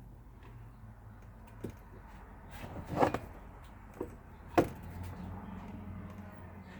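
A few knocks and clunks of a painting being handled and turned, the loudest about three seconds and four and a half seconds in, over a low steady hum.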